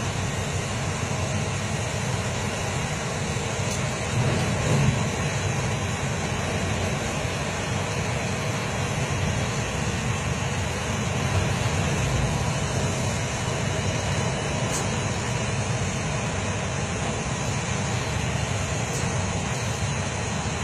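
Strong gale-force wind blowing steadily, a dense rushing noise heaviest in the low range, swelling briefly in a gust about four seconds in.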